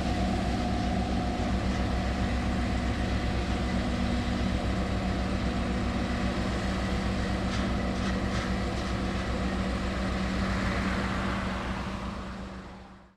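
Heavy diesel engine of construction machinery running steadily with a fast, even low throb. The sound fades away near the end.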